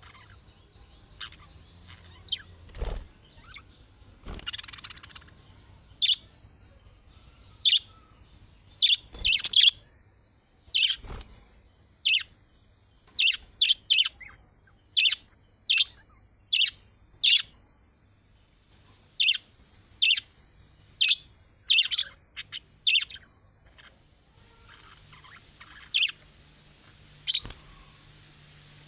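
Budgerigars giving a string of short, sharp chirps at irregular intervals, with a few dull knocks among them.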